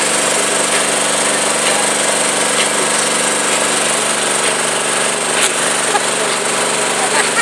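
Tractor engine running steadily at a constant speed, loud and close.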